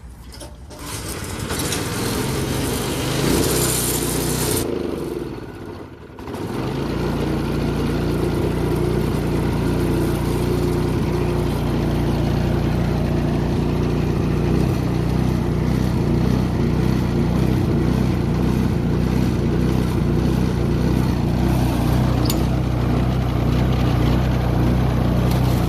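Toro 621QZE snowblower's 163cc OHV four-stroke engine starting and running, after its no-start carburetor problem has been worked on. It runs up for a few seconds, slows and dies about six seconds in, then catches again and runs steadily.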